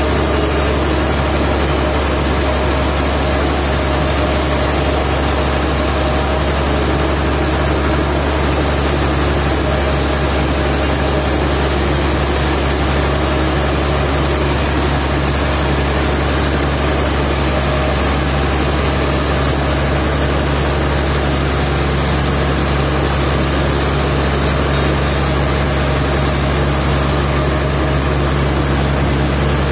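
Sawmill machinery running steadily: a constant, loud, low engine drone with a hiss of noise over it, unchanging throughout.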